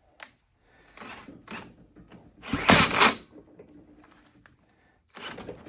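Scattered mechanical clicks and clunks from work on an engine test setup on a bench, with one louder half-second rasping burst near the middle; the engine is not yet running.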